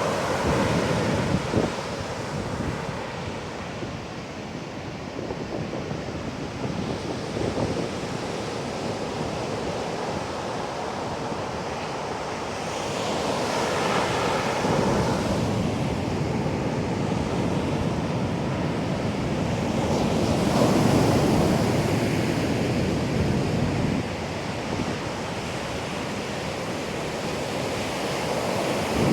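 Heavy typhoon surf breaking and washing up a beach in a continuous roar, with wind buffeting the microphone. The surf swells louder about halfway through and again about two-thirds of the way in.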